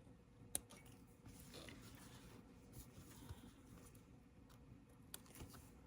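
Near silence: quiet room tone with a few faint, short clicks and rustles.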